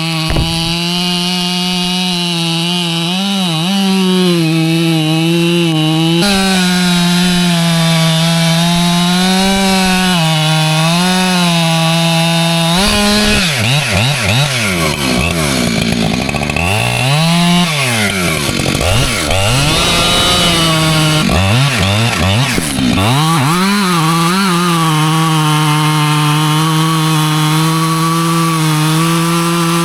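Husqvarna two-stroke chainsaw running at high revs, cutting white oak. For about ten seconds in the middle the engine speed repeatedly drops and climbs back, then it settles to a steady pitch again.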